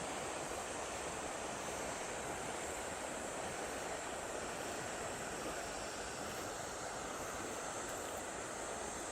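Steady rush of river water, the stream running high after rain.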